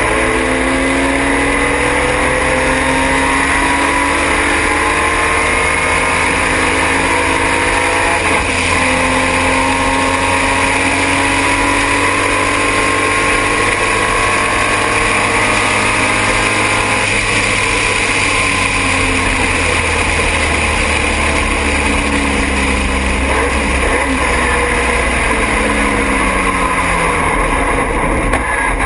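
Triumph TR6 race car's straight-six engine at racing speed, recorded on board. It revs up and drops back repeatedly as it works through the gears, over a steady hiss of wind and road noise.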